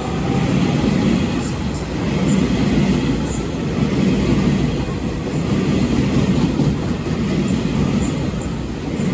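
Train running through a station with a loud, steady low rumble that swells and dips, and faint ticks over it.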